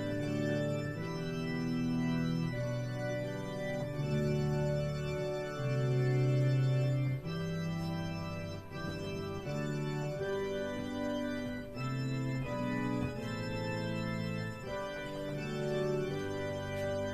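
Organ music: slow, sustained chords changing about once a second over low bass notes.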